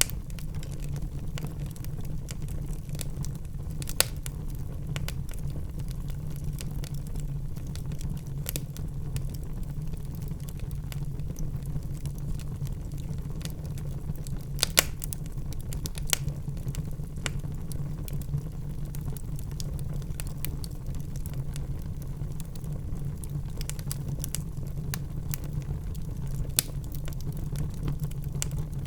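Wood fire in a fireplace crackling, with a steady low rumble of the flames and scattered sharp pops from the burning logs; a few louder snaps stand out, about four seconds in, twice around the middle and once near the end.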